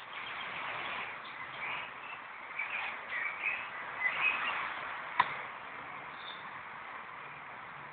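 Small birds chirping in short, scattered calls over a steady background hiss, with one sharp click about five seconds in.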